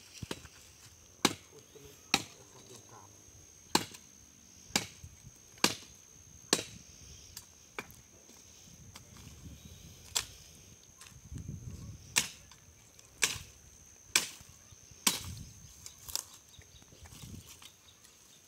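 Wood being chopped: a blade striking a log or root in sharp single blows, about one a second, with a short pause midway.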